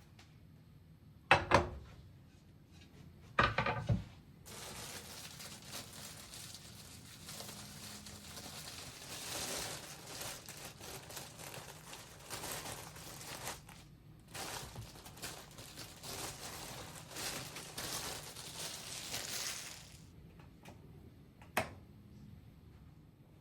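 Crinkling and rustling of something being handled, running for about fifteen seconds after two sharp knocks near the start, with one more click near the end.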